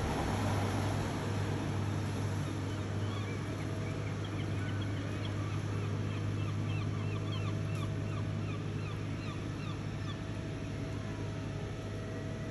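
A gull chick giving a rapid run of short, high peeping calls for a few seconds: begging cries for food from parents that have stopped feeding it. Under them runs a steady low hum of engine or traffic noise.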